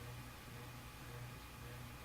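Quiet room tone: a faint, steady low hum over a soft hiss.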